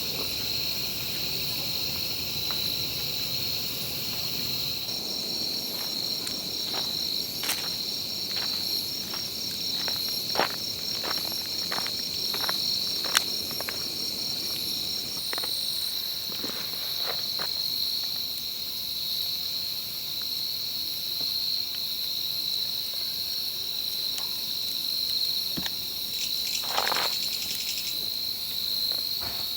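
Steady, high-pitched chorus of insects such as late-summer crickets. Scattered light clicks and knocks sound through the middle, and one louder knock comes near the end.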